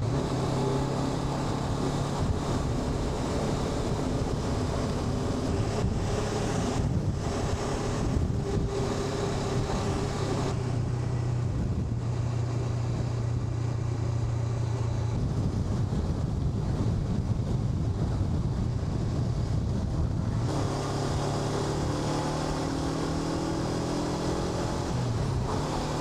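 Honda NX500's parallel-twin engine running while riding, with wind noise over the microphone. The engine note shifts about ten and twenty seconds in, and the pitch rises slowly near the end.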